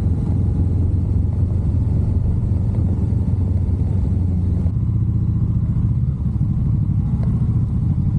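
Motorcycle engine running steadily at low speed, a low engine note that shifts slightly about two-thirds of the way through.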